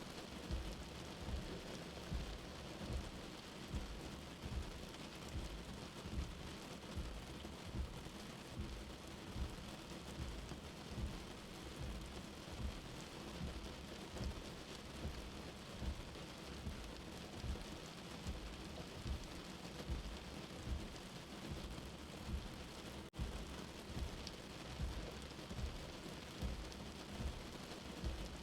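Steady rain with a soft, low heartbeat thump about once a second. A brief dropout comes about 23 seconds in.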